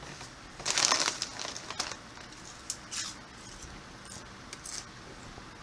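Crinkling rustle of popcorn being handled, loudest about a second in, followed by a few short, scattered crunches.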